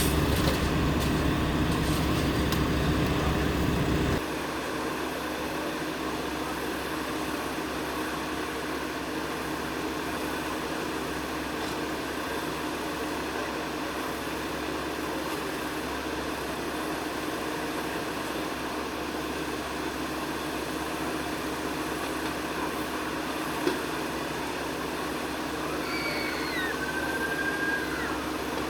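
Steady vehicle engine and traffic noise, with a heavy low rumble that drops off abruptly about four seconds in. There is a single thump late on, and a few brief gliding squeals near the end.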